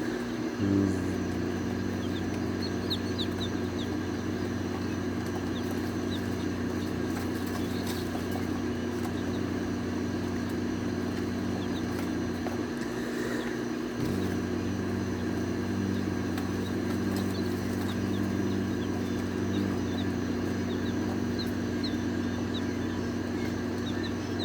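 Baby chicks peeping in short high chirps over a steady low electrical or mechanical hum, which cuts out briefly about halfway through and then comes back.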